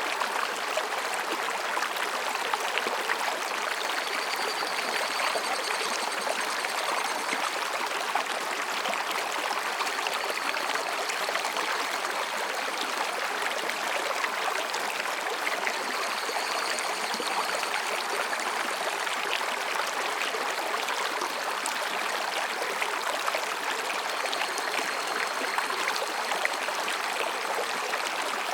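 Mountain stream babbling and rushing over rocks, a steady even sound of water. Faint, high, thin calls of higurashi cicadas come and go about four times.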